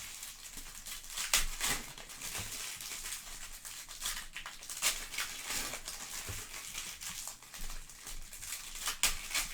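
Foil trading-card pack wrappers crinkling and tearing as card packs are opened, with a few sharper crackles.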